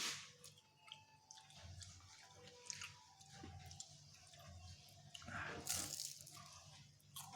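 Faint crackling and scattered pops of hot oil deep-frying banana spring rolls, with a louder sizzling hiss about five and a half seconds in.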